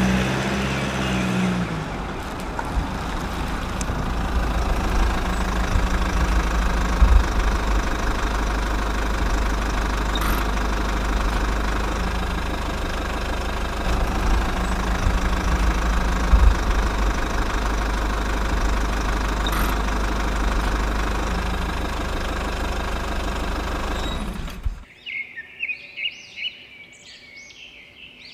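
Small diesel engine running steadily, driving a water pump. It cuts off abruptly near the end, leaving birds chirping.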